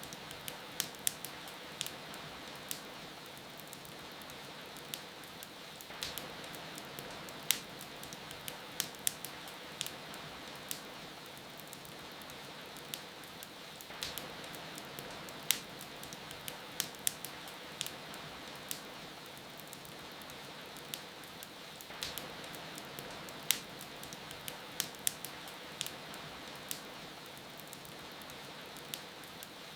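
Wood fire crackling with sharp, irregular pops over a steady hiss of rain; the pops come in clusters about every eight seconds.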